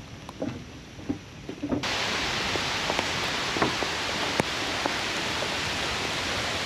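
Rain falling: a few scattered drips and taps at first, then about two seconds in a loud, steady hiss of rain starts abruptly and holds.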